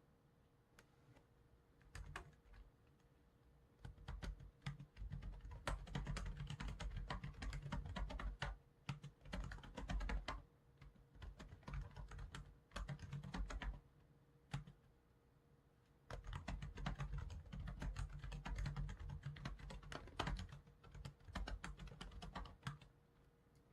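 Computer keyboard typing in two long bursts of rapid keystrokes, with a few isolated clicks early on and a short pause in the middle. A faint steady hum sits underneath.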